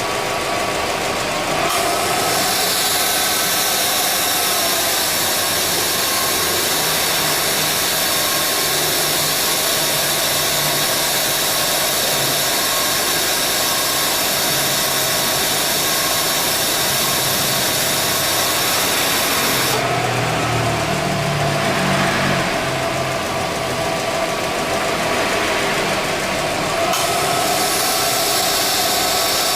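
2009 Subaru Forester idling with its air-conditioning compressor running and making an abnormal noise. The cause given is a refrigerant leak that leaves the compressor oil unable to mix with the refrigerant. A high hiss in the noise drops away about two-thirds of the way through and returns near the end, as the compressor cycles.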